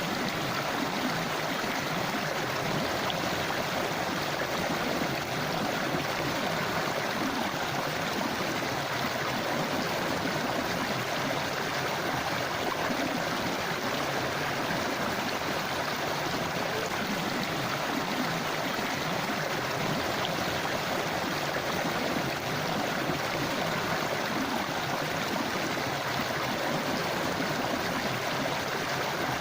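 A shallow forest stream or river flowing steadily over rocks, an even rushing and babbling of water with no breaks.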